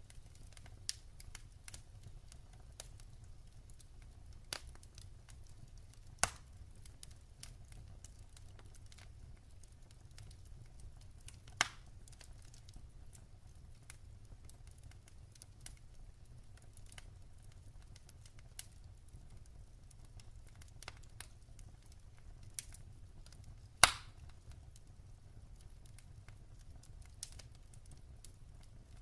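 Wood fire crackling in a fireplace: scattered sharp pops and snaps at irregular intervals, one much louder snap late on, over a low steady rumble.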